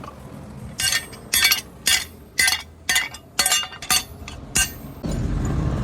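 Hammer blows on hot metal at the anvil: about eight ringing metallic strikes, roughly two a second. About five seconds in, a steady machine noise starts.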